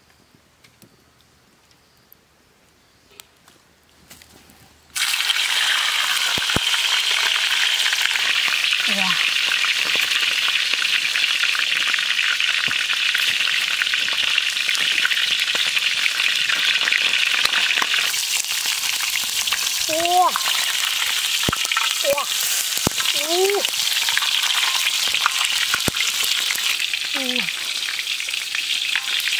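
Chicken pieces frying in hot oil in a wok: after a few quiet seconds, a loud sizzle starts suddenly about five seconds in and runs on steadily. A wooden spatula stirs the pieces near the end.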